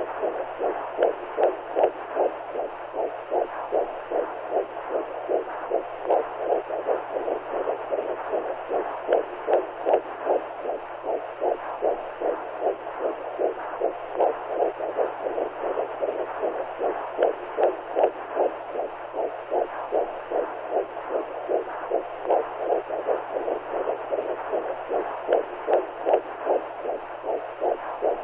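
Womb sound, as heard inside the mother's belly: a muffled, rhythmic whooshing pulse like a heartbeat over a steady hiss, with a low steady hum beneath.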